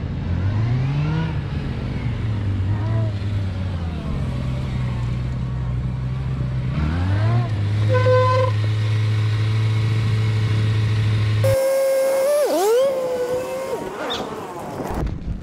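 Honda CB400SF inline-four motorcycle engine revving up and down as it is ridden through tight gymkhana turns, then holding steady revs, with a short beep about eight seconds in. In the last few seconds the engine sound gives way to a sustained tone that dips and then rises in pitch.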